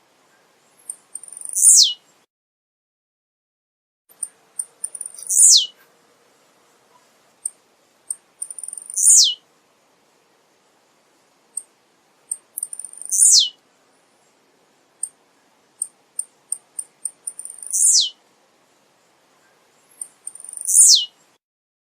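Male blue-black grassquit (tiziu) singing: a short high note that sweeps steeply downward, repeated six times about every three to four seconds, each led by a few short high ticks.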